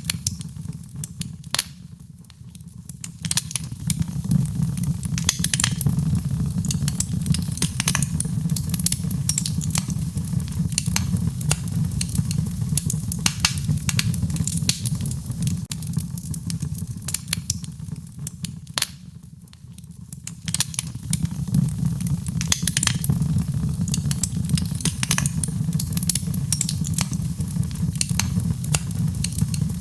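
Wood fire crackling and popping, with frequent sharp snaps over a steady low rumble of the flames. The fire quietens into a brief lull twice.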